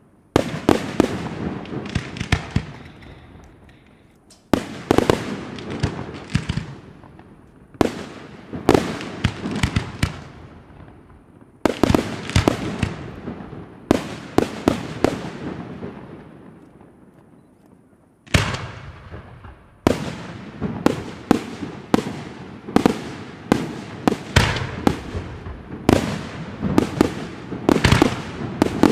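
Aerial firework shells bursting: clusters of sharp bangs every few seconds, each trailing off slowly with echo, then a rapid string of many bangs from about two-thirds of the way in.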